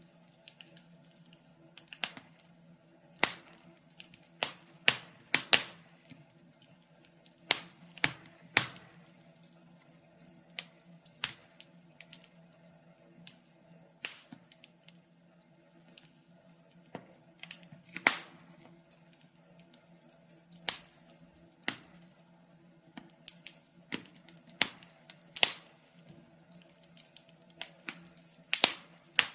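Wood fire crackling in a fireplace, with sharp pops at irregular intervals, some louder than others, over a faint steady hum.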